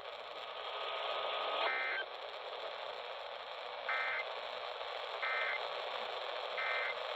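NOAA Weather Radio sounding the EAS end-of-message data tones: short buzzing data bursts just over a second apart over steady radio hiss, marking the end of the alert. A steady tone cuts off about a second and a half in, just before the first burst.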